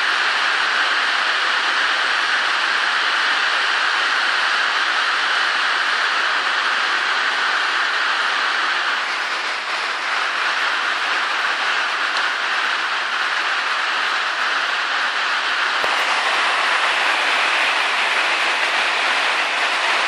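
Heavy storm downpour beating down as a steady, dense hiss, with a single sharp click about 16 seconds in.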